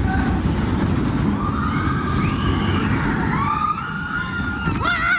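Expedition Everest roller coaster train rumbling along its track. Riders' screams rise and fall over it, and the loudest comes near the end.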